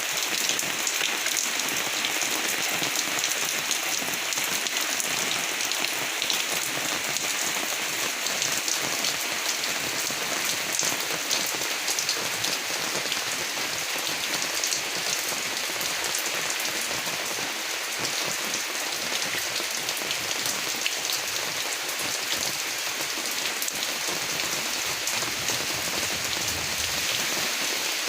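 Steady rain falling, with a dense patter of many small drop ticks.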